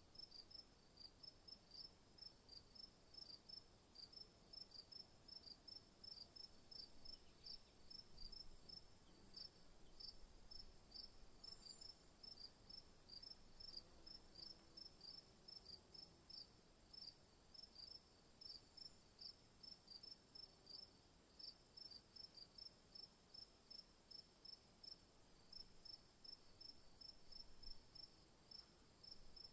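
Faint insect chirping in an even rhythm, about three chirps a second, over a continuous high-pitched insect whine.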